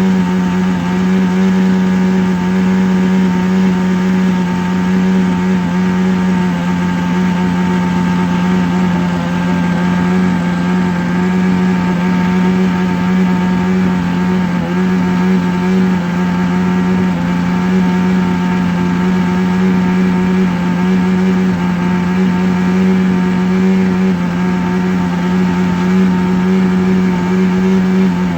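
A steady low droning hum at one unchanging pitch with overtones, held without a break: a sustained relaxation drone tone.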